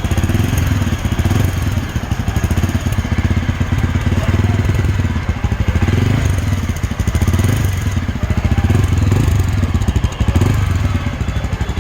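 Yezdi Adventure motorcycle's 334 cc single-cylinder engine running through its stock exhaust, idling with several light blips of the throttle. The exhaust note is pretty smooth.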